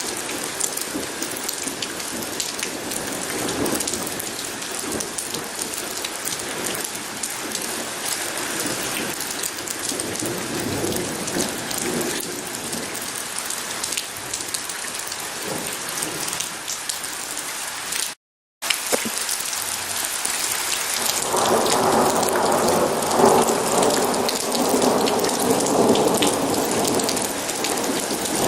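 Steady heavy rain pattering on surfaces, with thunder rumbling and swelling louder over the last third. The sound cuts out completely for a split second a little past halfway.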